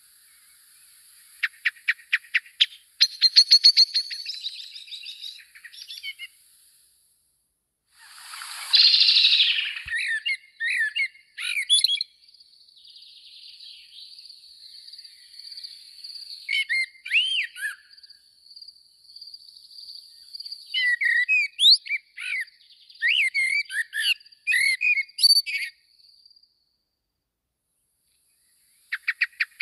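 Small birds chirping and calling in short bursts: a rapid run of sharp high notes in the first few seconds, a louder, rougher burst about nine seconds in, then scattered chirps over a thin, steady high note, ending in a few seconds of quiet.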